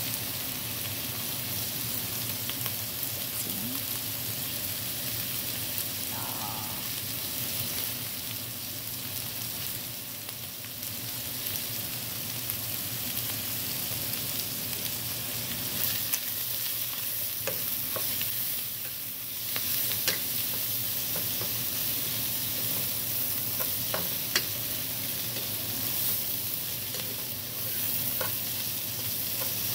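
Chicken and vegetables sizzling steadily in a hot frying pan as they are stir-fried. Several sharp clicks in the second half are a utensil knocking against the pan.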